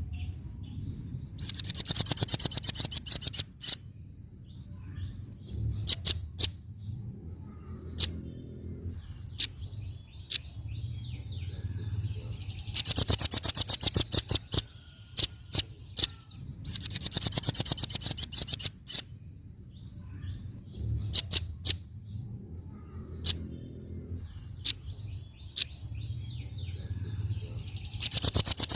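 Velvet-fronted nuthatch calling: loud bursts of very rapid, high, sharp notes, each about two seconds long, come four times, with single sharp chips scattered between them. A steady low rumble runs underneath.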